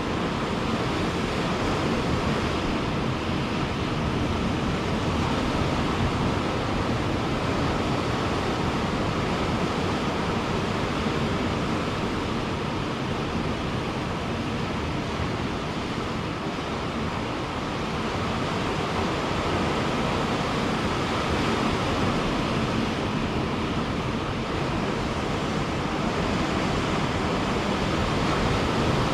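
Ocean surf breaking on a beach, a steady wash of waves with gentle swells in loudness and no single distinct crash.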